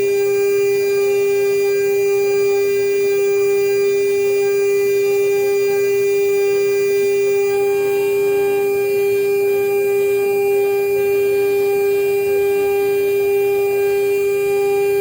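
CNC router spindle running at constant speed with a steady whine, while milling an aluminium seal plate.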